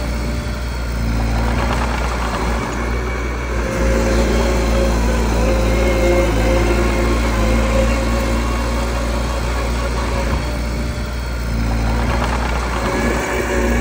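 Mini bulldozer's diesel engine running under load, pulling harder from about four seconds in and easing off briefly near the end.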